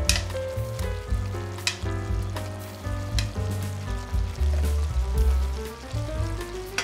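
Food sizzling in a pan, with a few sharp clicks, under background music with a pulsing bassline.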